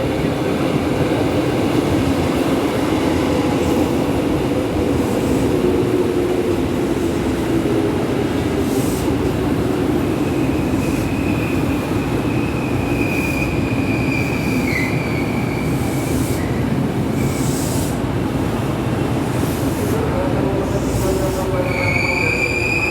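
Tokyo Metro 7000 series electric commuter train pulling into a station, its running noise steady with a whine that slowly falls in pitch as it slows. High wheel squeal sets in about ten seconds in and runs for several seconds, then starts again near the end.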